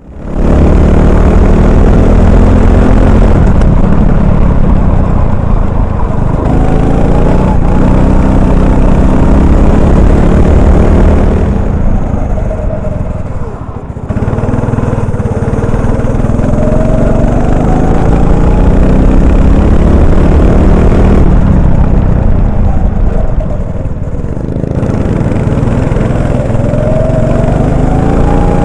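Single-cylinder Honda 390 four-stroke kart engine running hard, its pitch climbing again and again as it accelerates. It drops away twice, about twelve and twenty-two seconds in, as the throttle is lifted for corners, then picks up again.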